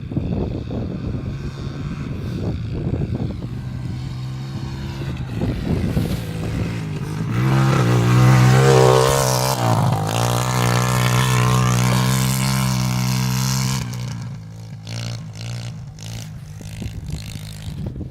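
Pit bike engine running and being revved, getting louder about seven seconds in, its pitch rising and falling while at its loudest, then dropping back to a lower, quieter running about fourteen seconds in.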